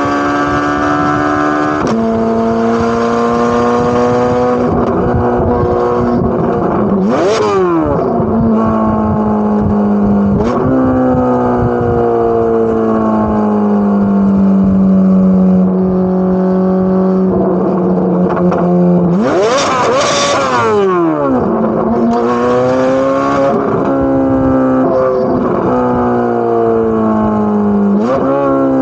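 Corvette C8 Z06's 5.5-litre flat-plane-crank V8 driving through the gears, its exhaust note stepping in pitch with each shift and holding steady for several seconds mid-way. Twice, at about seven seconds and again around twenty, the revs leap up sharply and fall straight back in a quick blip.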